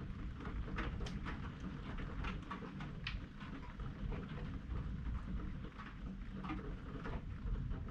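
Raindrops pattering in scattered, irregular ticks during a thunderstorm, over a steady low rumble.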